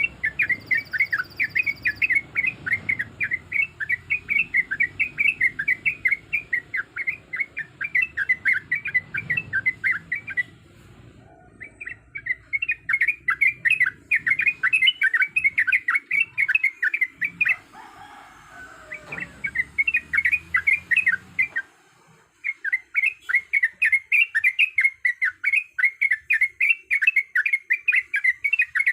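Trucuk (yellow-vented bulbul) singing a fast, loud run of repeated chattering notes in long bouts, broken by a few short pauses. This is lure audio meant to draw other trucuk to answer.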